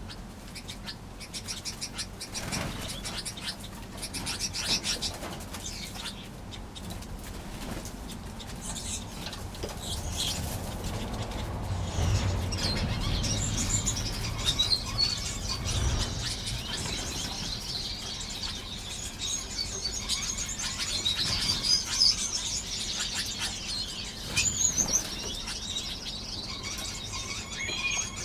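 Many small aviary finches chirping and calling at once, the twittering getting busier in the second half.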